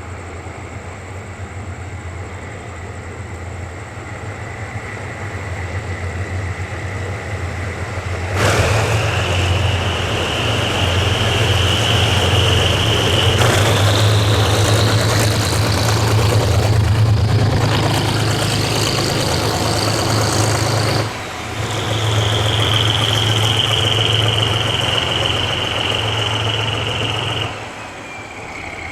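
Diesel locomotive engine running low, then throttling up sharply about eight seconds in to a loud run with a high whine that climbs in pitch. It dips for a moment about two-thirds of the way through, resumes with the whine slowly falling, and eases back near the end.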